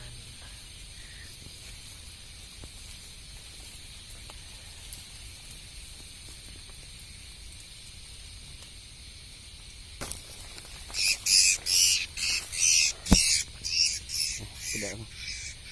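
Steady chorus of night insects. From about eleven seconds in, a run of loud, harsh squawks, roughly two a second, from a captured young prinia, with one sharp click among them.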